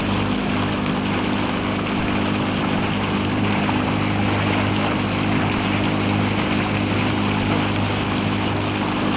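Motorboat engine running at a steady speed with the boat underway, under a constant rushing hiss.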